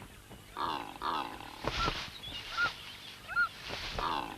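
Secretary bird attacking a martial eagle: harsh honking croaks a few times, with short rushes of high noise between them and a few brief high chirps.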